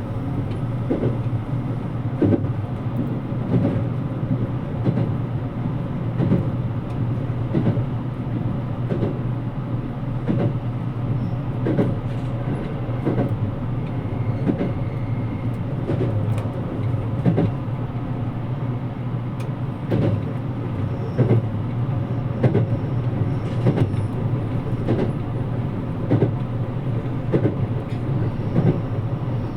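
Cabin noise of a JR Kyushu 787 series limited-express train running at speed: a steady low rumble from the wheels on the rails, with rail-joint clicks recurring about once a second.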